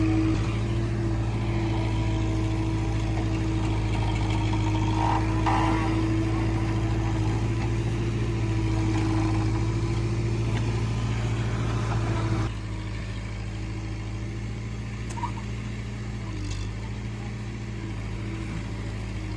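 Diesel engine of heavy machinery running steadily at high revs, with an even hum that drops noticeably quieter about twelve seconds in.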